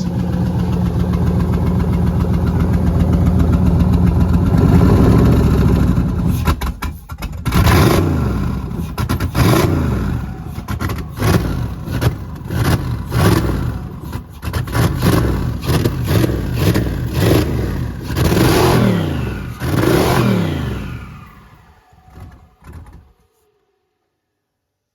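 Turbocharged LS V8 engine idling steadily on its first run after its fuel system was redone, stumbling briefly, then revved in a series of quick blips about once a second. Near the end it stalls and dies out.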